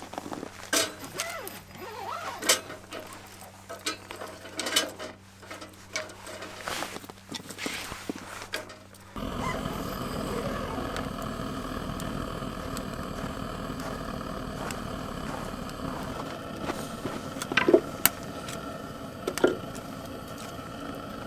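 Scattered clicks and knocks, then about nine seconds in a steady rushing roar begins and holds, with a few sharp clicks near the end: a fire being lit in a wood-burning stove, the roar fitting a gas torch flame.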